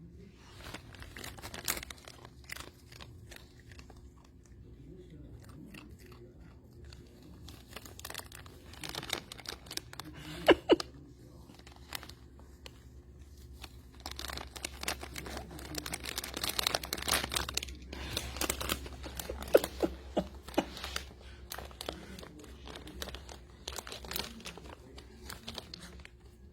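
A Pomeranian crunching baked plantain chips with her head inside the chip bag, the bag crinkling around her. Irregular crisp crunches, busier and louder in the second half.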